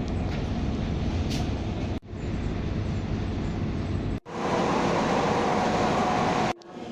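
Diesel multiple unit train running: a steady rumble, cut abruptly twice, about two and about four seconds in. The last stretch is louder and hissier, with a steady tone over it, and ends suddenly near the end.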